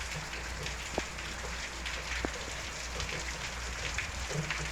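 Steady rain falling, an even hiss full of individual drops ticking, with two sharper clicks about one and two seconds in.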